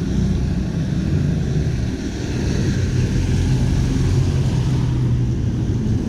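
Street traffic on a wet city road: a motor vehicle's engine runs close by with a steady low hum, while a hiss from the wet street swells in the middle and then fades.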